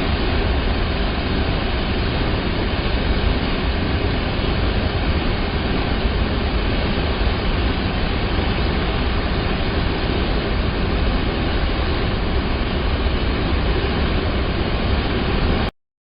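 Rushing water of a river or waterfall, a steady dense noise with a heavy low rumble, which cuts off abruptly near the end.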